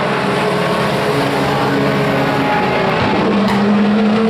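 Pro 4 race truck engines running at speed as the field laps the oval, several engine tones overlapping. About three seconds in a louder engine note comes in and holds.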